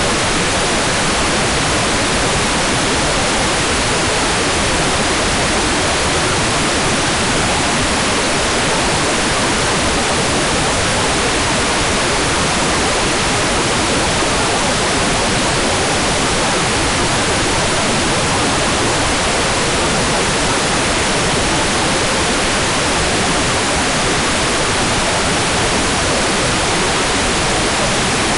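Hair dryer running steadily: a constant, even rush of blown-air noise with no change in pitch or level.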